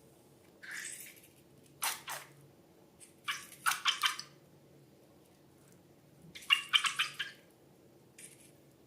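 Wet, sticky slime squelching with crackly clicks, in several short bursts.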